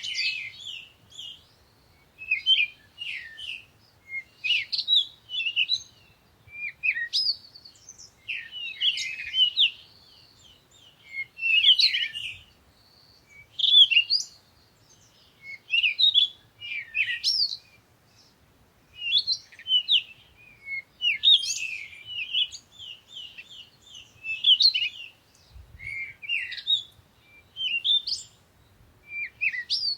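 Songbirds chirping and singing: quick high twittering phrases and short sweeping notes, coming in bursts every second or two.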